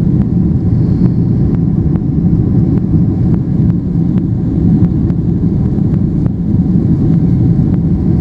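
Steady, loud rumble of a Boeing 767's jet engines during takeoff, heard from on board, with faint regular ticks about three a second.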